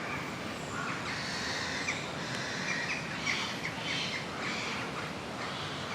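Wild birds chirping, with many short, high calls scattered throughout over a steady outdoor hiss.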